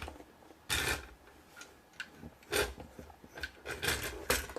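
Plastic LEGO pieces being handled on a hard surface: a few separate clicks and knocks, a bunch of them near the end.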